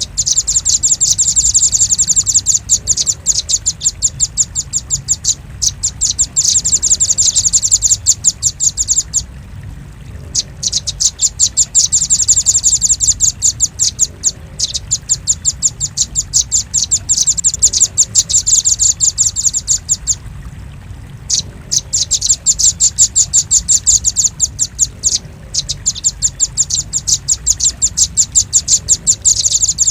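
Velvet-fronted nuthatch calls played as a bird lure: long runs of rapid, high, evenly repeated chirps, pausing briefly twice, over a low steady hum.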